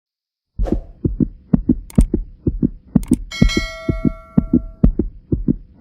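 Intro sound effect: low double thumps like a heartbeat, about two a second, with a bell chime struck about three seconds in that rings on for a second and a half.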